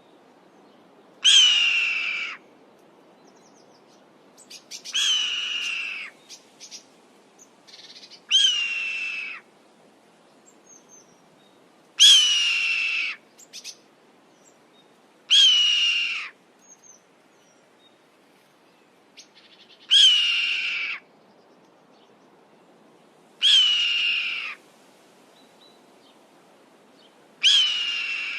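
Hawk screaming: eight piercing calls, each about a second long and falling in pitch, repeated every three to four seconds.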